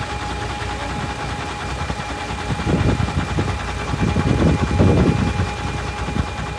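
Heavy diesel construction machinery running steadily, with two bursts of rapid rattling clatter, the first about three seconds in and a louder one a little after four seconds.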